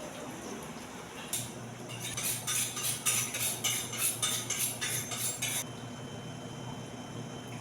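Cutlery and dishes clattering in a rapid run of clinks for about four seconds, starting about a second in, over a steady low hum.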